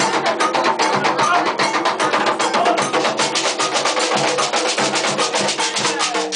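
Ritual drumming for Xangô: hand drums and percussion playing a fast, steady rhythm of dense strikes, which stops just at the end.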